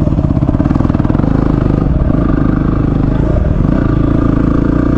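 Single-cylinder dual-sport motorcycle engine running steadily while riding, heard close up from the bike.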